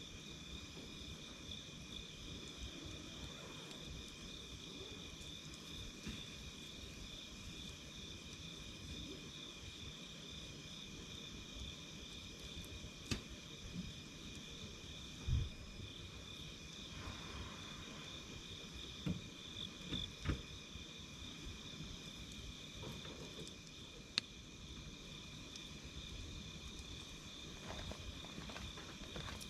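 Night insects chirring without pause in two high, steady bands, one of them a fast pulsing trill. Under them a wood campfire burns with a low rumble and gives a few sharp crackles and pops, the loudest about halfway through.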